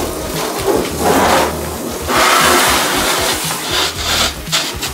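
Background music with a steady bass beat, over three hissing surges of water spraying from a hose onto the car, the second and loudest starting about two seconds in.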